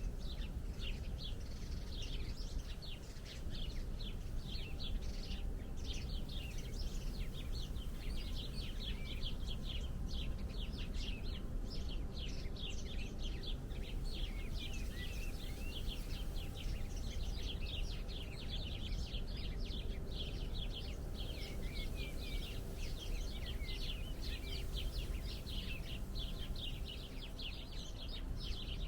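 Many small birds chirping at once, a dense, unbroken chorus of short, high chirps, over a steady low rumble.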